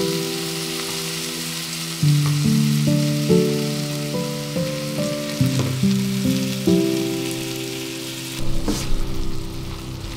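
Diced tomatoes and onions sizzling in a frying pan under background music of slow held notes. About eight seconds in, the sizzle drops and a spatula stirs the pan with a few knocks.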